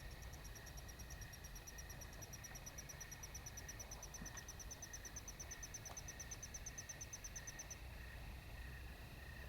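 Night insects calling in a meadow: a fast, even series of high-pitched pulses, about seven a second, that stops suddenly near the end, over a faint steady chorus of other insects.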